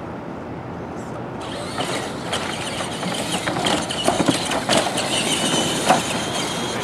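Electric R/C monster trucks running, with a thin motor whine and scattered clicks and knocks from the trucks rattling over the track. The sound brightens about a second and a half in.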